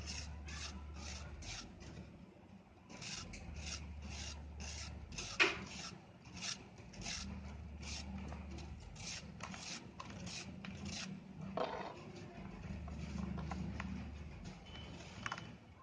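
Shapes of dry red sand being crushed and crumbled, a run of crunchy, grainy strokes about two or three a second, with a sharper crack about five seconds in and another near twelve seconds.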